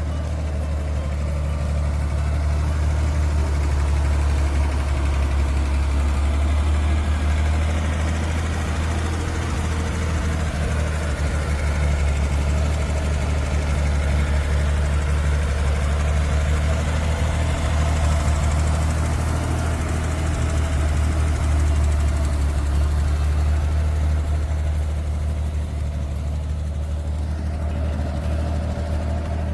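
1963 Chevrolet Corvair Monza 900's air-cooled flat-six engine idling steadily.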